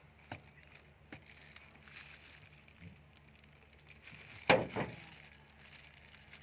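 Spiny durian husk being pried apart by hand: a few light woody clicks, then one loud crack with a smaller one just after it about four and a half seconds in.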